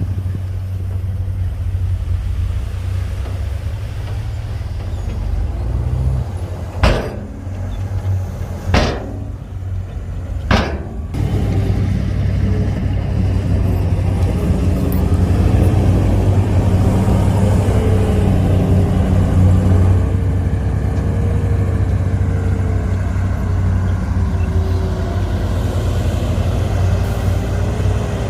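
Heavy earthmoving diesel engine running steadily, with three sharp bangs a little under two seconds apart. The engine then works harder and louder, with a wavering whine over the drone.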